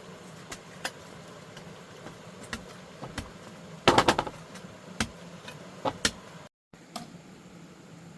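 Bamboo poles being worked by hand, knocking sharply at irregular intervals, with a quick cluster of four or five knocks about four seconds in.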